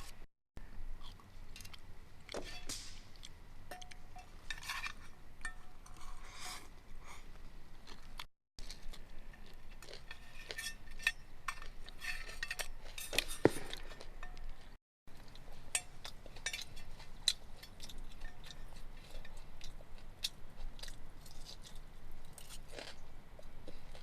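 Close-up eating sounds: chewing, with utensils clinking against dishware, in many short clicks and scrapes. The sound drops out completely for a moment three times.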